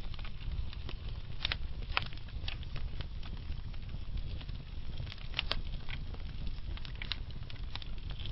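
Slow-burning wood fire crackling: a steady low rumble of burning logs with scattered sharp pops and snaps, the loudest about one and a half, two and five and a half seconds in.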